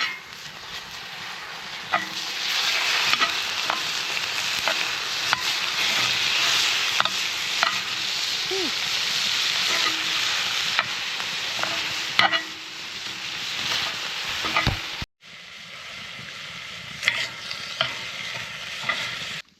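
Meat frying and sizzling in a pan, with the clicks and scrapes of a utensil stirring it. The sizzle swells after about two seconds, eases around twelve seconds in, drops out briefly about fifteen seconds in, then goes on more quietly.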